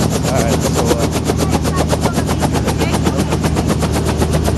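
Helicopter running close by: the main rotor chops in a rapid, even beat of many pulses a second over a steady low engine drone.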